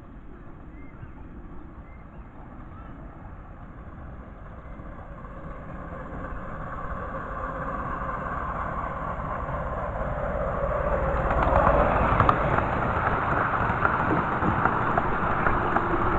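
Miniature railway train approaching, its running noise growing louder over several seconds and then staying loud as it passes close by.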